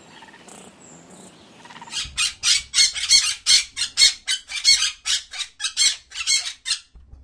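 Budgerigar chirping: a rapid run of short, high chirps, about four a second, starting about two seconds in and stopping shortly before the end.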